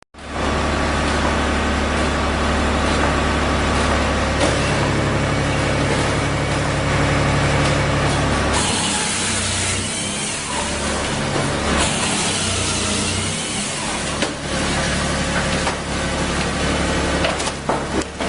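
Firewood processing machine running steadily with a low mechanical hum, with loud hissing, rasping bursts starting about halfway through as the wood is cut and split.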